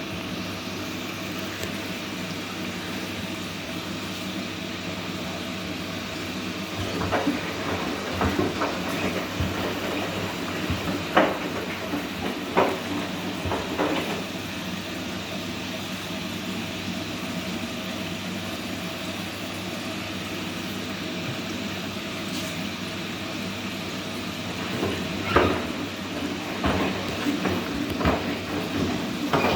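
Whirlpool washing machine running: a steady mechanical hum, with stretches of irregular knocking and clunks, once from about seven to fourteen seconds in and again near the end.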